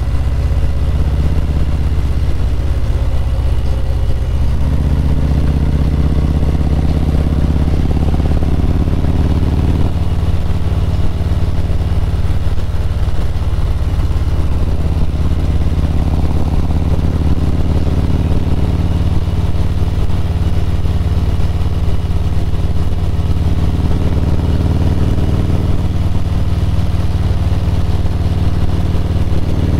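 Harley-Davidson Road Glide's V-twin engine running at cruising speed, heard from the saddle. Its note steps up about four seconds in and shifts again around ten seconds as the throttle changes.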